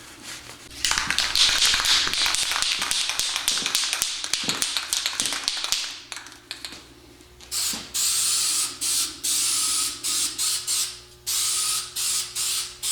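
An aerosol can of Duplicolor cast-iron engine paint is shaken first, and its mixing ball rattles fast for about five seconds. Then come several short hissing spray bursts, each a second or less, as the paint is sprayed.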